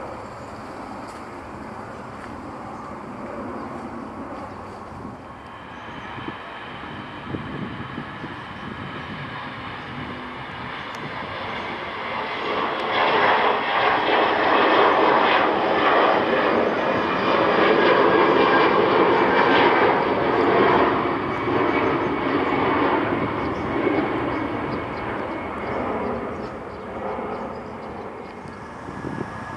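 Jet airliner's engines at takeoff power passing by: a rumble with a steady high whine builds, is loudest for several seconds around the middle, then slowly fades away.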